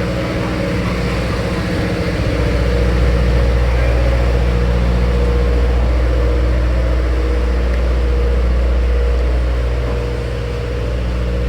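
A locomotive running close by, a steady low mechanical rumble with a held hum, getting a little louder about two seconds in and easing slightly near the end.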